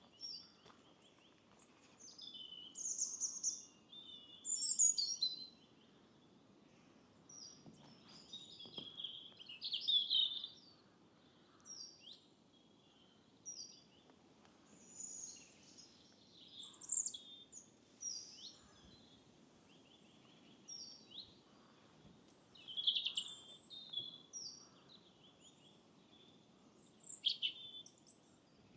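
Several small songbirds singing and calling at once: many short high chirps, trills and whistled phrases overlapping throughout, with the loudest bursts about five, ten, seventeen and twenty-three seconds in.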